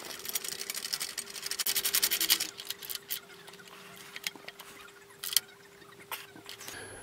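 Ratchet spanner clicking rapidly for about two seconds as a nut is run onto an engine-mounting bolt, then a few separate clicks and knocks of metal tools. A faint steady hum under it.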